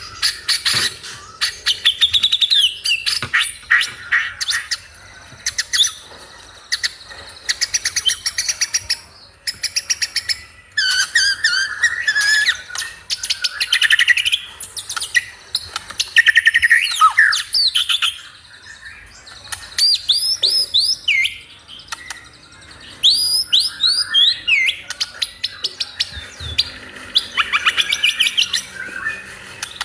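A songbird singing in repeated bursts of rapid chattering trills and quick whistled notes, with short pauses between phrases.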